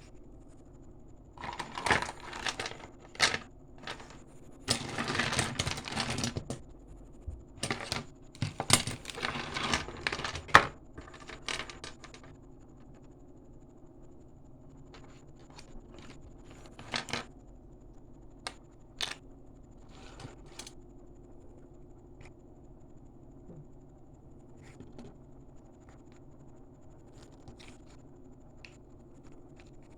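Plastic toy packaging being handled: bursts of crinkling and tearing for the first dozen seconds, then scattered light clicks and taps as small plastic pieces are picked up and set down.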